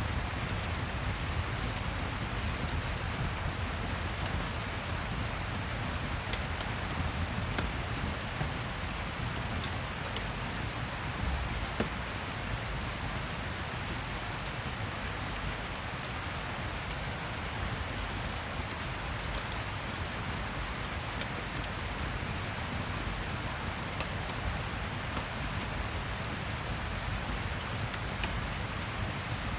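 Steady rain falling, with scattered faint crackles from a fireplace.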